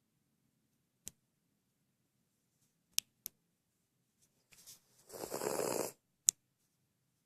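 Dog snoring in its sleep: a soft breath about four and a half seconds in, then one loud snore lasting under a second. A few short sharp clicks are scattered around it.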